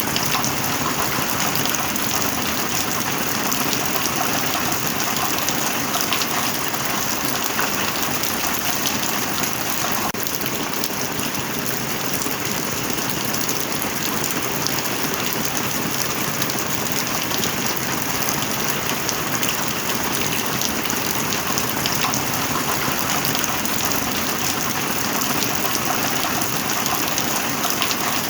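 Heavy rain falling steadily, a dense, even hiss of countless drops striking a surface, with no lull or thunder.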